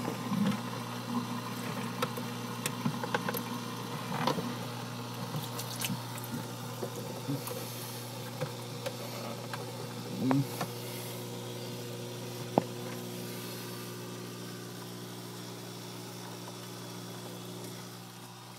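Reef aquarium sump system running with a steady electric pump hum and water trickling and splashing through the plumbing. Scattered small clicks and knocks in the first half, fading out later.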